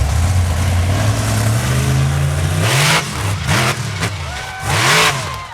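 Monster truck engine running with a deep steady drone, then revved hard in several short blips from about halfway through, each one rising and falling in pitch with a loud exhaust blast.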